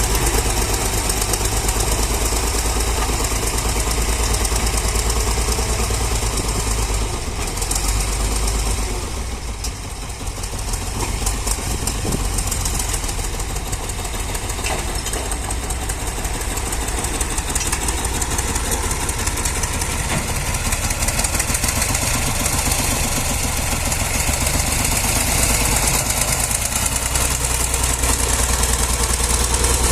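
Tractor engine running steadily as it works a leveling blade. It eases off briefly about a third of the way in, then picks up again.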